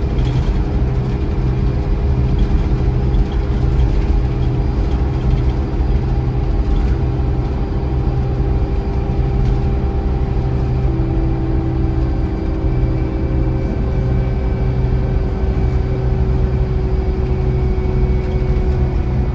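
Scania Irizar i4 coach running steadily under way: a continuous engine drone with road noise and a steady tone, and a second tone that joins for a few seconds just after halfway.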